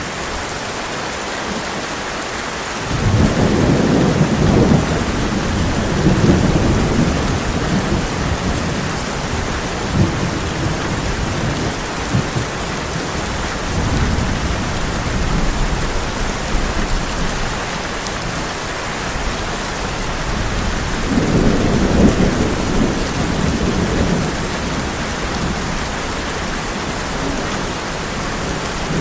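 Heavy rain drumming on a tin roof as a steady hiss, with thunder rolling in twice: a sudden low rumble about three seconds in that fades over several seconds, and another swell of rumbling later on.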